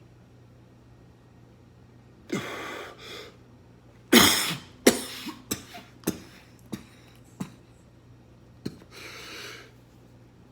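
A person's sharp, explosive breaths or coughs, three of them, with the loudest about four seconds in. Between them come half a dozen short, sharp knocks or clicks.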